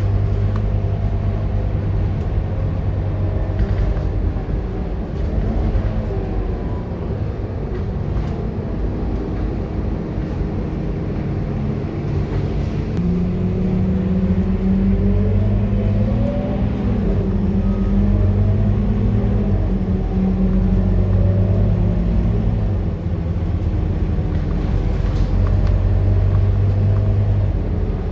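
Scania K230UB bus's five-cylinder diesel engine running under way, its pitch rising as it accelerates about halfway through and then dropping back.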